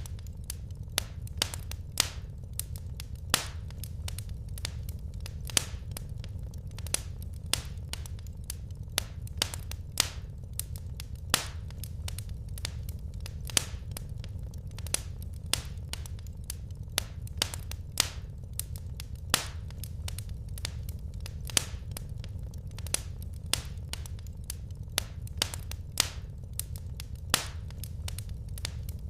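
Wood fire crackling in a fireplace: sharp, irregular pops, a few a second, over a steady low rumble of burning.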